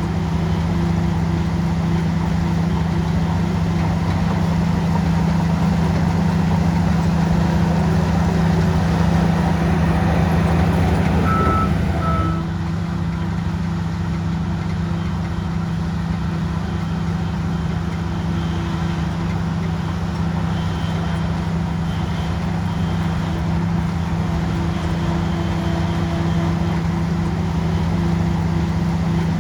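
Bulldozer's heavy diesel engine running steadily under load. Two short beeps sound near the middle, after which the engine runs a little quieter.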